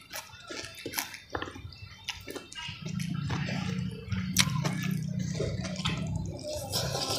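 Close-miked wet chewing and smacking of a mouthful of rice and fried salted fish, with small clicks and crackles as fingers pick at the fish and rice on the plate. A low steady hum comes in about three seconds in and runs under the mouth sounds.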